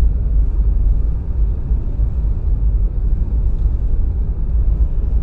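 Wind buffeting the microphone in a snowstorm: a loud, steady low rumble that swells and dips unevenly.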